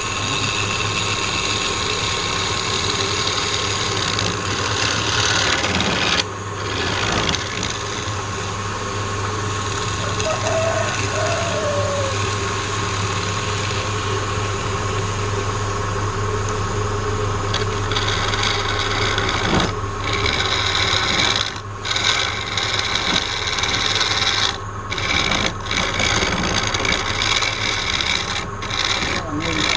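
Wood lathe running, with a turning tool held against the spinning wood, giving a steady scraping, rasping noise over the motor's hum. The cutting noise breaks off briefly several times as the tool is lifted from the wood.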